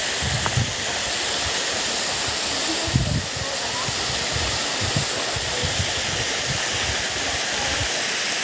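Waterfall: a steady rush of falling water, with scattered low bumps of wind or handling on the microphone.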